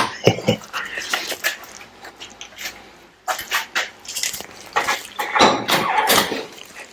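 Workshop handling noises: irregular knocks, clinks and scrapes of tools and engine parts being moved about, coming in clusters.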